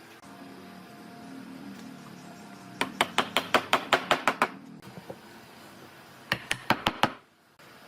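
Rapid sharp knocks, about a dozen in quick succession, then a second run of five, over a faint steady hum.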